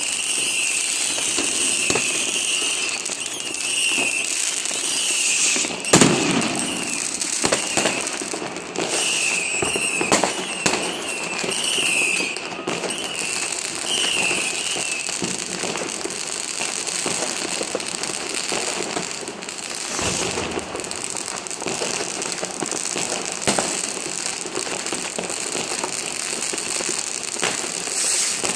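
New Year's Eve fireworks and firecrackers going off all around: a dense, continuous crackle packed with sharp bangs, one louder bang about six seconds in. Wavering high whistles from rockets run through the first half.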